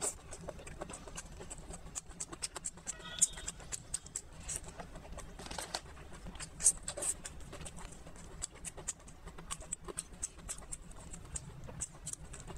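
Close-up chewing and mouth sounds: many small wet clicks and smacks as a soft thin pancake roll with scrambled egg and greens is bitten and chewed.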